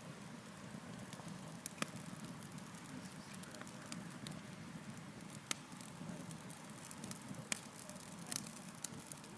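Campfire burning, with irregular sharp crackles and pops from the burning wood over a low steady rush of flames.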